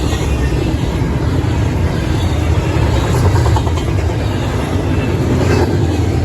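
Union Pacific freight train passing at speed: a steady, loud low rumble of locomotive engines and rolling cars.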